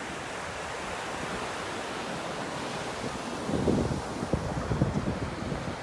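Steady wash of sea surf, with wind buffeting the microphone in low gusts from about halfway through.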